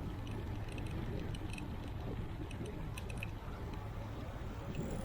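Steady wind and road rumble of a bicycle in motion, with irregular light metallic clicks and jingles from the bike rattling.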